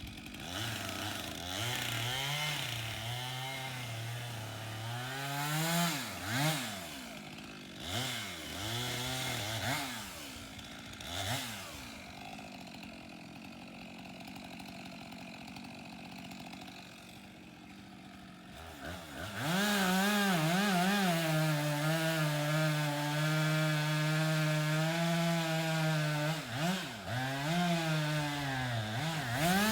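Stihl two-stroke saw engine revving up and down in short blips and dropping back to idle, then held at high revs for several seconds, with a few more revs near the end.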